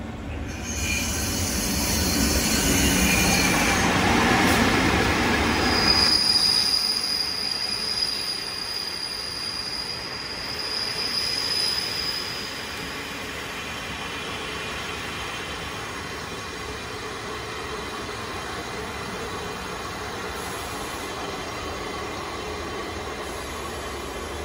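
EF64 electric locomotive and a rake of old-type passenger coaches arriving: the locomotive runs past with a loud rumble for the first few seconds, then a high, steady wheel squeal rings for several seconds as the coaches roll in slowing, before the sound settles to a steadier, quieter background as the train draws to a stop.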